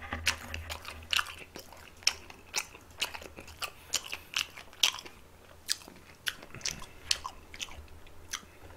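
Close-miked chewing of crunchy food: a steady run of irregular crunches and wet mouth clicks, a few every second.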